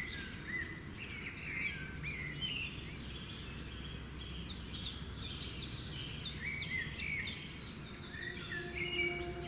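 Birds chirping and calling, many short high notes over a low background rumble, with a run of quick repeated downward-sweeping notes, about three a second, in the middle.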